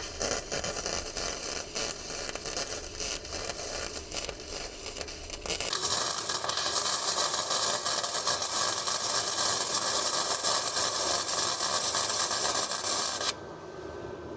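Electric welding arc crackling and hissing as a steel repair patch is welded to a car's front chassis. It comes in short stop-start bursts for the first five or six seconds, then runs as one steady bead for about seven seconds and cuts off near the end.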